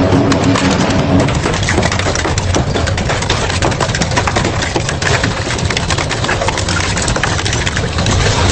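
Double-shaft industrial shredder running under load, its blades grinding and cracking through material, with many sharp snaps over a steady low drone.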